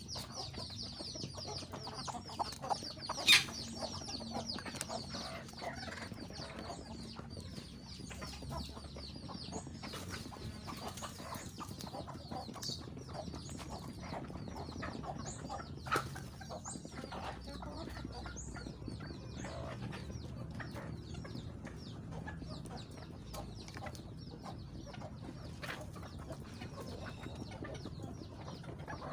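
Chickens clucking and calling, with many rapid high peeping calls that are densest in the first ten seconds. A sharp knock sounds about three seconds in, and a smaller one about halfway through.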